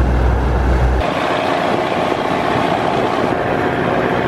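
Motorboat engine running steadily. About a second in, its deep low hum drops away and a broader, higher rushing engine-and-water noise takes over.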